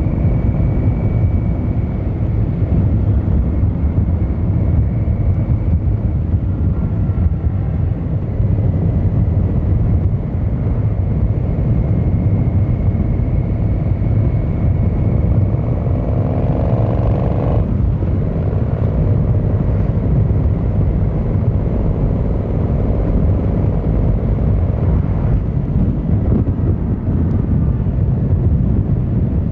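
Yamaha XVZ1300 Royal Star's V4 engine and exhaust running steadily under way, with a deep, even rumble. About halfway through, a brief rising tone cuts in and then stops.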